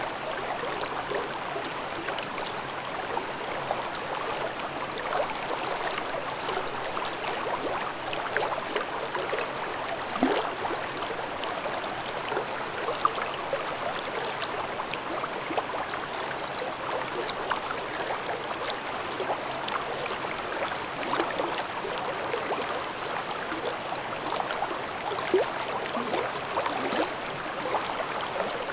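A mountain brook babbling and gurgling steadily over rocks, full of small splashes and bubbling flickers.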